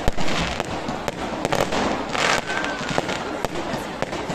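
Fireworks going off: a string of sharp bangs and crackles at irregular intervals from bursting aerial shells, with hissing from rising rockets, loudest about two seconds in.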